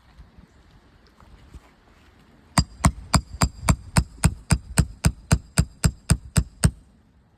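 Hammer striking a steel roof snake (a shingle nail-removal bar) about sixteen times in a quick, steady rhythm of about four blows a second, each blow ringing metallically, to cut or pull a shingle nail.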